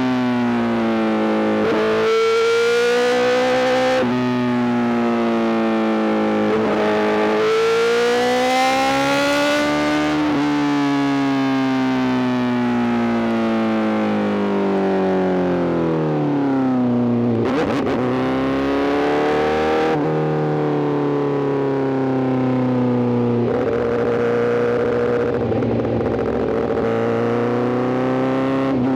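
Honda CBR1000RR-R SP's inline-four engine through a full Arrow exhaust, accelerating through the gears: the pitch climbs and drops sharply several times in the first ten seconds. The note then falls steadily as the bike slows, dips and picks back up sharply about seventeen seconds in, and runs on at steadier revs with mild rises.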